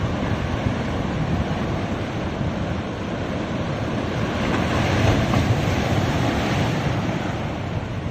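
Ocean surf washing onto a beach, a continuous roar of breaking waves that swells about halfway through.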